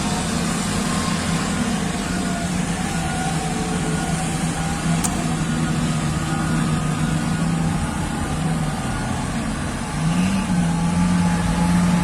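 Heavy mining dump truck's diesel engine running steadily, then rising in pitch and loudness about ten seconds in as it accelerates.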